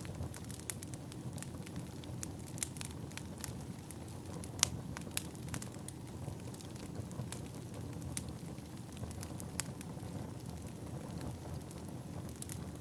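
Wood fire burning: a steady low rush of flame with frequent sharp, irregular crackles and pops, one louder pop a little under five seconds in.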